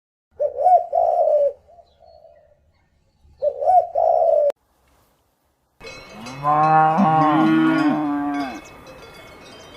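Two short cooing calls like a pigeon's, then a long, loud mooing call from cattle about six seconds in, with several pitched voices overlapping.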